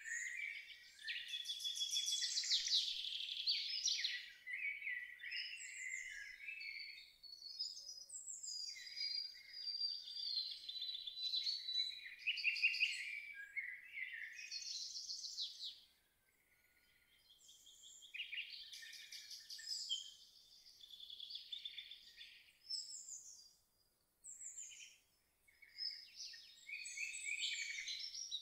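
Several songbirds singing and calling over one another in a dense chorus of chirps and rapid trills, with brief lulls.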